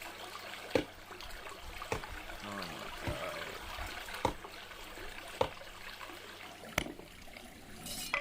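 Water trickling and running steadily, like a small stream, with sharp knocks about once a second.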